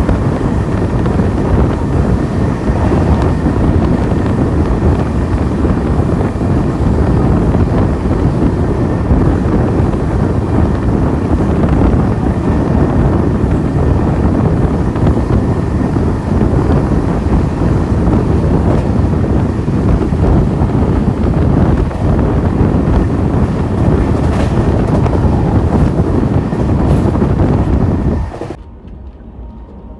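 Moving express train recorded with wind buffeting the microphone, a loud steady rush of air over the train's running rumble that stops abruptly near the end.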